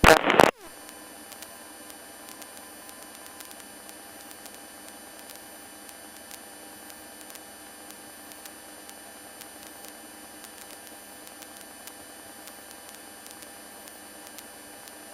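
Steady hiss with a faint electrical hum and whine on the cockpit intercom and radio audio feed, after a brief loud burst right at the start.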